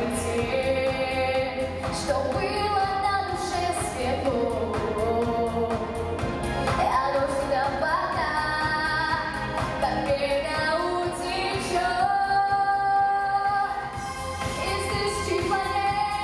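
A pop song: a female voice singing a melody over a steady backing track with a low beat.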